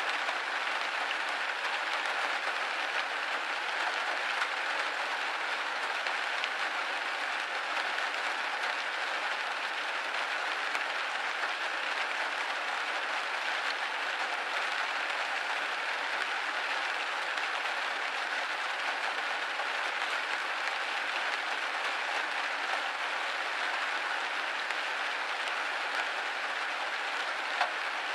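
Steady rain pattering on a window pane, a dense even hiss of drops with no let-up.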